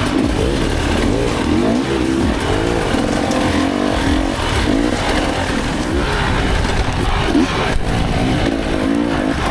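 Dirt bike engine under hard riding, its revs rising and falling quickly and again and again through tight turns, over a steady low rumble, with a few knocks.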